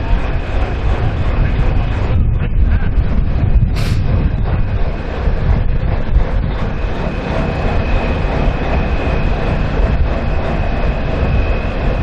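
Semi truck diesel engine running, a steady heavy rumble, with a short sharp click about four seconds in.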